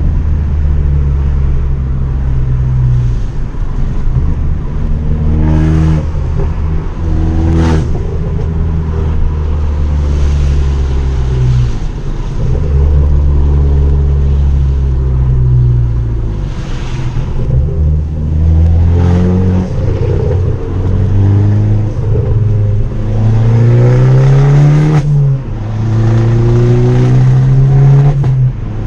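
Abarth 500's turbocharged 1.4-litre four-cylinder running through a decatted, straight-piped Bombardone exhaust, driven hard. The engine note climbs and drops sharply several times as it pulls through the gears. There are two sharp cracks about six and eight seconds in.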